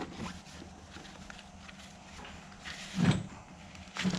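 A few scattered knocks and light clatter from handling work, with one louder thud about three seconds in and another near the end.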